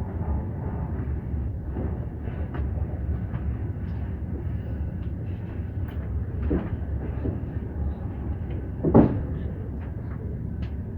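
Moving suburban train heard from inside the carriage: a steady low rumble with scattered rattles and clicks, and a louder knock about nine seconds in.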